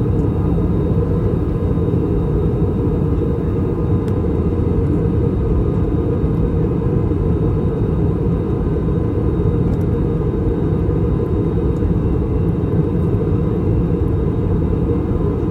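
Steady low rumble of cabin noise inside an Airbus A321-200 in descent: airflow over the fuselage and its IAE V2533-A5 turbofan engines, with a faint steady hum above it.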